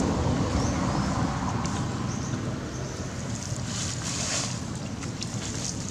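Wind buffeting the microphone, a steady low rumble that slowly fades, with a few faint clicks and short high chirps.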